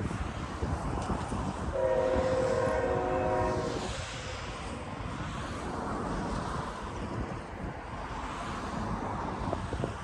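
Nathan Airchime K5HL five-chime horn on CN's Wisconsin Central heritage locomotive 3069 sounding one blast of about two seconds, beginning just under two seconds in, over the steady rumble of the train.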